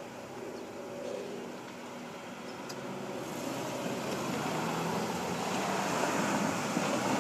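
A vehicle approaching at a railroad grade crossing: a broad rushing noise that grows steadily louder from about three seconds in. At the start there is a low hum with a few steady tones.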